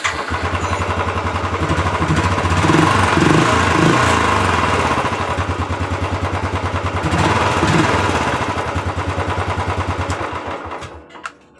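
Royal Enfield single-cylinder motorcycle engine catching right at the start, idling with an even thump on its original exhaust, revved in short blips a few seconds in and again later, then cutting off near the end.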